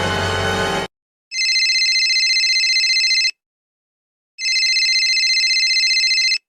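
Telephone ringing twice, each ring a steady, rapidly fluttering high tone lasting about two seconds, with a second's pause between rings. Just before it, a loud musical clip cuts off under a second in.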